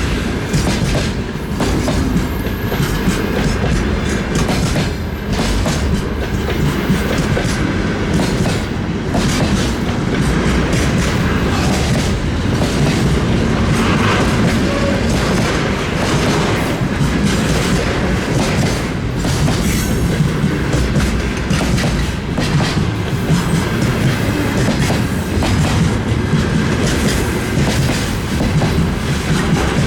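Freight train rolling past, a steady clatter of wagon wheels clicking over the rail joints.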